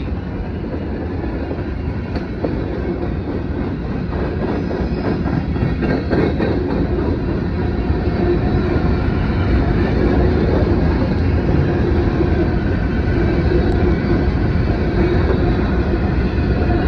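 Norfolk Southern mixed freight train rolling past: a steady rumble of cars and wheels on the rails, growing slightly louder over the stretch.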